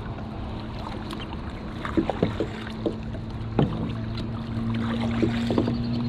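Kayak paddling on open water: water noise with occasional sharp knocks of paddles against the boats. A low steady hum comes in about halfway through and continues.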